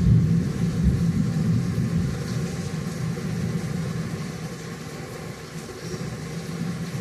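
Steady rain hiss under a low rumble that swells suddenly at the start and fades away over several seconds.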